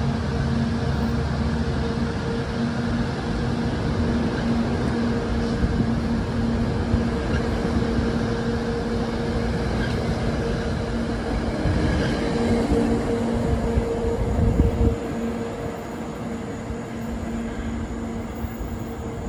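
NJ Transit diesel-hauled commuter train running close by: a steady engine drone over heavy rumble and rail noise. It eases off a little about 15 seconds in.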